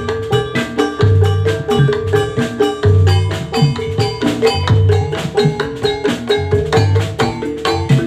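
Instrumental jathilan music with no vocals: gamelan-style struck metal instruments playing a fast, repeating pattern over deep drum beats about once a second.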